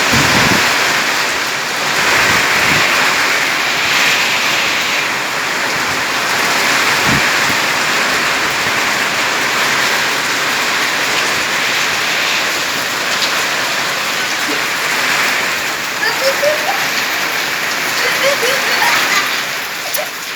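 Heavy rain pouring steadily in a thunderstorm, a loud, even hiss.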